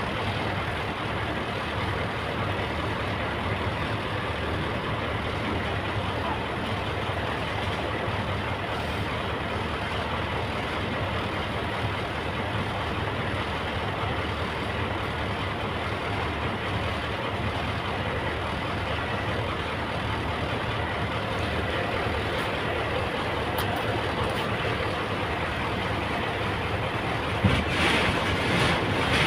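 Heavy diesel engine of an excavator running steadily, with a single knock near the end.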